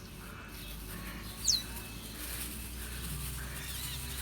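A bird gives a short, high chirp that falls sharply in pitch about a second and a half in, with a few fainter calls later, over a steady low outdoor rumble.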